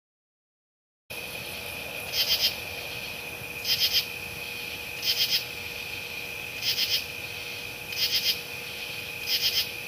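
Insect chirping: a short run of three or four rapid high pulses repeating about every one and a half seconds, over a steady hiss and a steady high whine. It starts about a second in.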